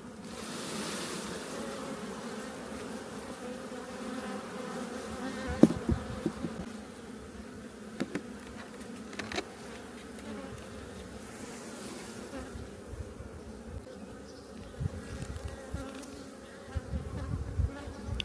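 A colony of Buckfast-type honeybees buzzing steadily around an opened hive, with a few sharp clicks and knocks of hive frames being handled, the loudest about five and a half seconds in. Low rumbles come in near the end.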